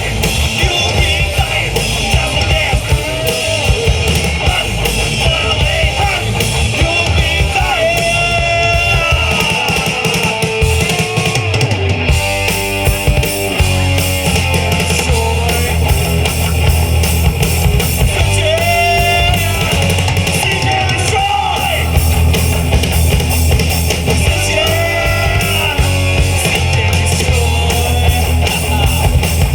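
Live rock band playing: electric guitars, bass guitar and drum kit, with a melodic line bending in pitch over a heavy, steady low end.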